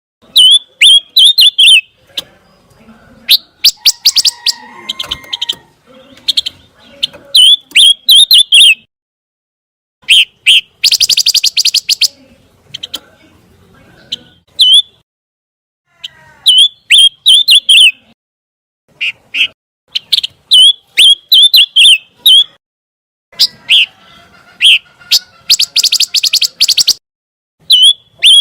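Pancawarna bird calling in loud, repeated phrases of rapid sharp ticking notes mixed with short hooked whistles, each phrase a second or two long with brief pauses between.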